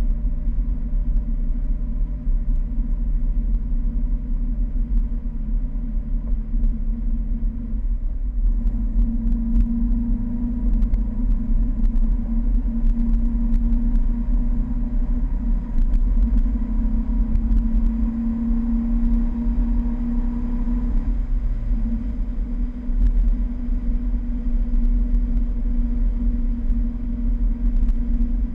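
Fiat 1200 Spyder's four-cylinder engine running steadily as the car drives along, with heavy wind rumble on the microphone. The engine note changes pitch about eight seconds in and drops briefly around twenty-one seconds in.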